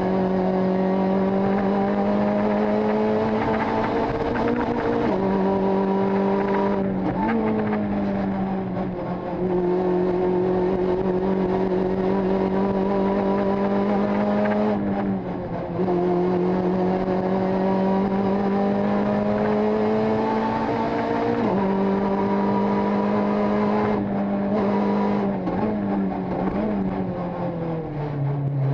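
Rally car engine heard from inside the cockpit, running hard at high revs. Its pitch climbs slowly and drops sharply at each of several gear changes. Near the end it falls in quick steps as the car slows through the gears.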